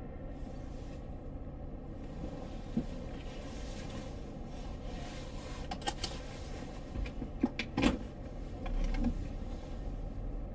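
Car cabin noise while driving: a steady low hum of road and engine, with a few sharp clicks and knocks about six to eight seconds in.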